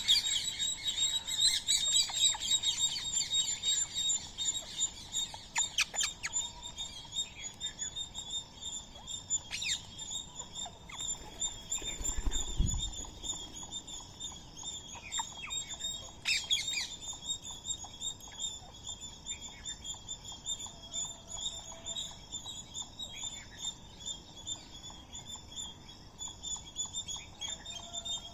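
Birds chirping at a feeding spot: many short chirps and a few sharp, loud calls over a steady high-pitched drone, with a soft low thump about twelve seconds in.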